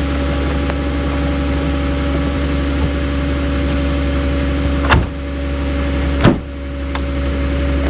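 Ram ProMaster van idling with its heater and defrost fan blowing, heard from inside the cab: a steady hum and rush of air. Two sharp clicks come about five and six seconds in, each followed by a brief dip in the fan noise.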